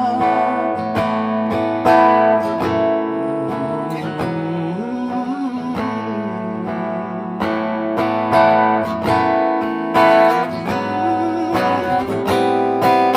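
Acoustic guitar playing an instrumental passage of a song, chords strummed in a steady rhythm.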